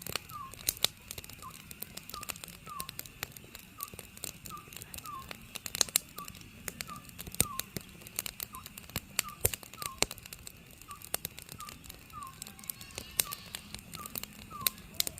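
An Oriental scops owl calls over and over, a short falling note repeated at a steady pace, while a wood fire crackles with irregular sharp pops.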